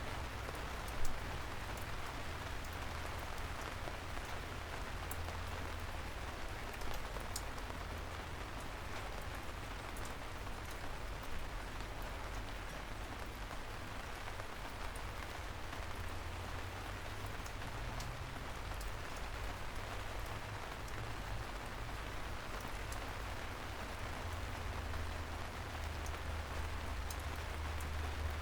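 Steady rain falling on city streets, with scattered drops ticking and a low steady rumble underneath. A single louder drip stands out about a second in.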